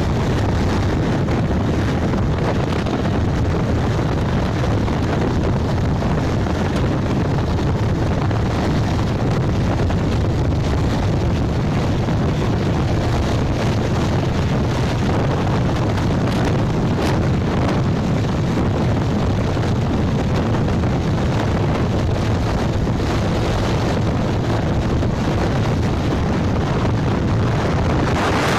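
Steady wind rushing over the microphone on a moving motorbike, with the low rumble of the bike and the road beneath it.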